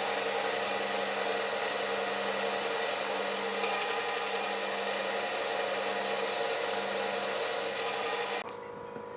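An electric power tool working solid wood, running steadily with a dense whine. It cuts off abruptly near the end, leaving a quieter, duller hum.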